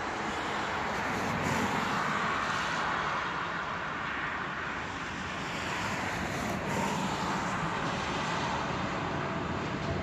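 Freight train hauled by two Romanian Class 40 (060-EA) electric locomotives approaching: a steady, even rumble.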